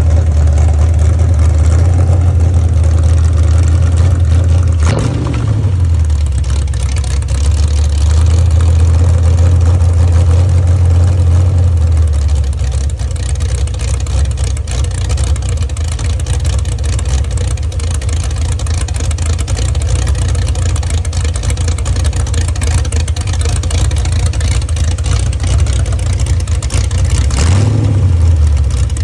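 Chrysler LA 360 small-block V8 with an Isky 270 Mega camshaft running at idle, blipped briefly twice: about five seconds in and again near the end.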